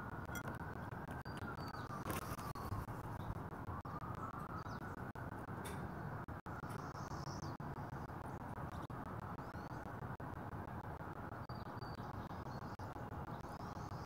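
Steady outdoor background rumble with faint, distant small-bird chirps now and then. About two seconds in and again near six seconds there is a sharp tap, which fits a Northwestern crow's bill knocking on a plastic water dish.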